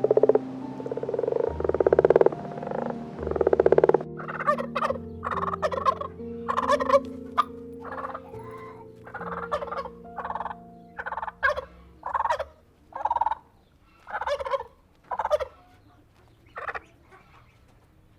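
Poultry calling again and again, about a dozen short calls roughly one a second, with louder, lower calls in the first few seconds and the calls fading out near the end. Background music with long held notes runs underneath.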